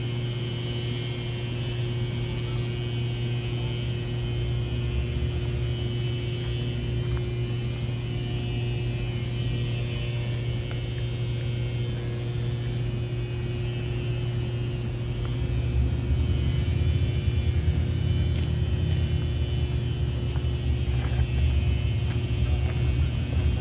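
Diesel locomotive engines of an approaching train, still out of sight, running with a steady low rumble and a held hum. The rumble grows louder about two-thirds of the way through.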